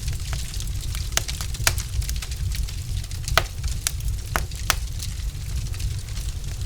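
Log fire in a fireplace crackling, with irregular sharp pops over a steady low rumble of burning.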